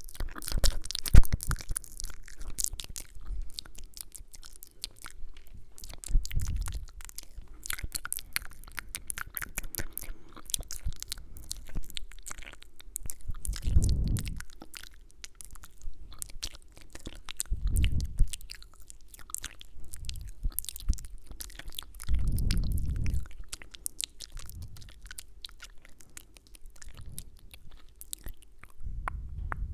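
Close-miked ASMR mouth sounds: quick wet clicks and kissing sounds, with several soft low whooshes against the microphone.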